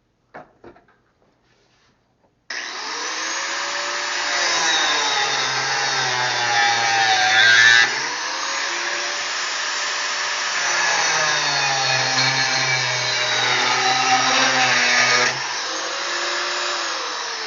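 Angle grinder with a thin cut-off disc cutting metal pipe, starting abruptly about two and a half seconds in. Its whine sags and recovers in pitch as the disc bites under load, and it winds down near the end.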